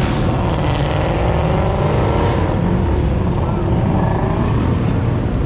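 Loud V8 muscle-car engine noise, running with the pitch rising and falling as the engine is revved.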